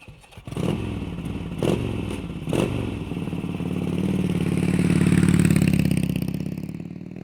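Motorcycle engine running, with three sharp knocks in the first three seconds, growing louder to a peak past the middle and then fading away.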